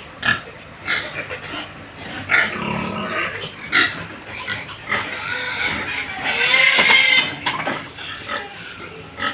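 Pigs grunting and squealing in short calls, with one long, loud squeal about two-thirds of the way through.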